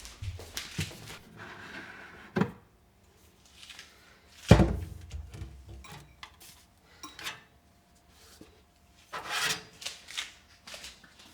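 Kitchen handling sounds: objects knocked and set down, with a heavy thump about halfway through, and a stretch of rubbing near the end.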